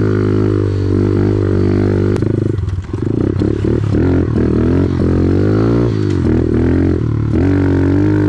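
Several small off-road engines running together. One holds a steady idle while others rev up and down.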